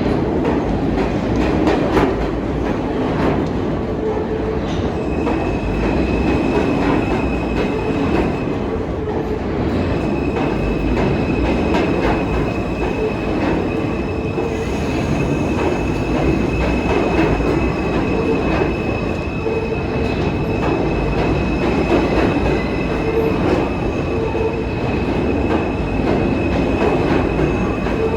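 New York City subway train running along the tracks with a steady, continuous rumble. A thin, high-pitched whine of the wheels rides over it from about five seconds in, drops out briefly, then holds to the end.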